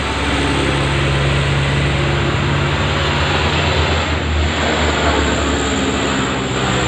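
Heavy dump truck's diesel engine running steadily under load, with a broad mechanical and tyre noise over it.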